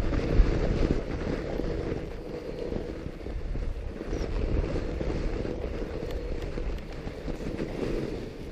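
A fat bike rolling over a snow trail: a steady low rumble of wind buffeting the microphone with the knobby tyres' rolling noise, a little louder in the first second.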